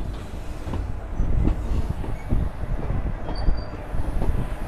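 Passenger train coach rolling slowly into a station, heard from its open doorway: a steady low rumble of wheels on rail with irregular knocks and clanks. There is a brief high squeal about three and a half seconds in.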